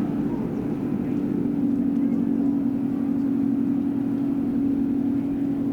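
Boat engine running steadily as a boat passes through the channel, a constant low drone.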